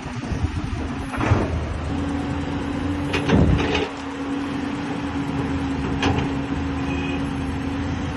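Caterpillar 320D excavator running with a steady engine drone and a held tone, and a few sharp clanks. The loudest clanks come as a cluster about three seconds in.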